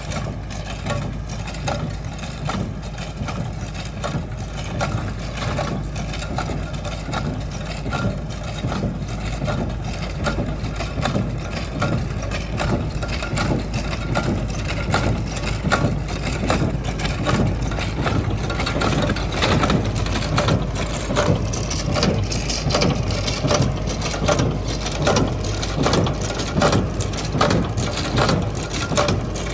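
Vintage tractor engine running steadily, with the regular clatter of hay machinery working and growing louder about halfway through.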